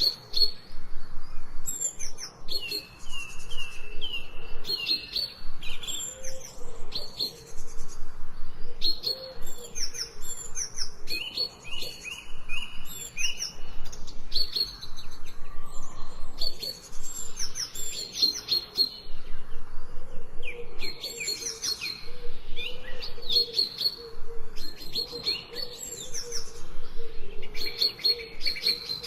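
Small songbirds chirping and twittering in quick, repeated high phrases, several calls overlapping without a break.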